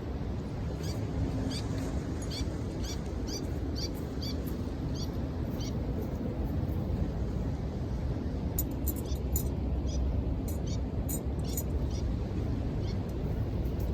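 Steady low rush of sea waves on the shore, with a run of short high chirps about two a second in the first half and sharp crackles from the wood fire in the second half.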